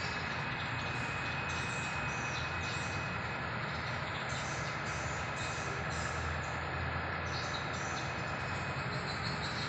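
Steady mechanical noise, with a faint high steady tone over the first three seconds or so.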